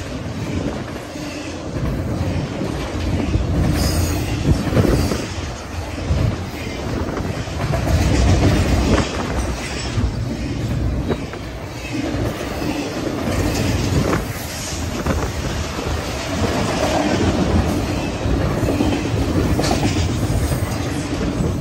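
BNSF double-stack intermodal freight train's loaded well cars rolling past close by: a steady low rumble, with the wheels clacking over rail joints now and then.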